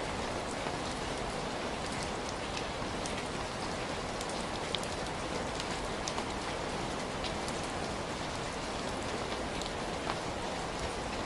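Heavy rain falling steadily, a dense even hiss with many individual drops ticking on a surface.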